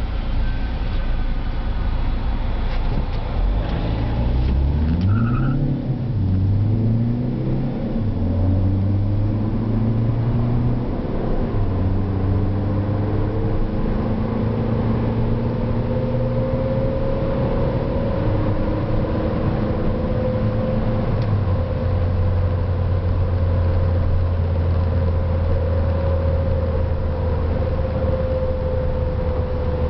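Ford Focus TDCi diesel engine heard through a single Moroso Spiral Flow mid muffler. For the first several seconds the exhaust note rises in a few steps, like accelerating through the gears, then settles into a steady drone with small changes in pitch.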